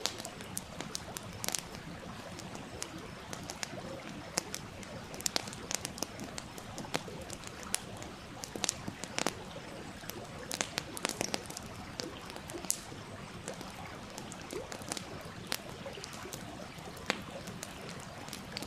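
Wood fire crackling with irregular sharp pops, over the steady rush of a small stream.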